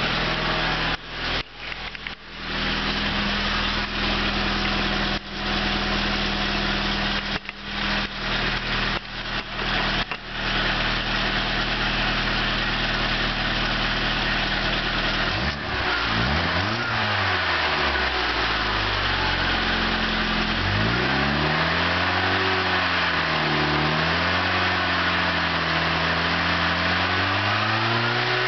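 A high-mileage, never-rebuilt 1994 Saturn SC2's 1.9-litre DOHC four-cylinder heard at the exhaust, idling steadily with several brief dropouts in the sound early on. From about halfway through it is revved up and let back down several times, its pitch rising and falling.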